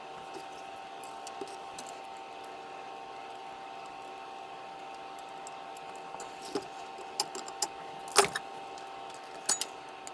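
Small metal parts being handled on a workbench: a few light clinks and knocks in the second half, the loudest about eight seconds in, over a steady faint hum.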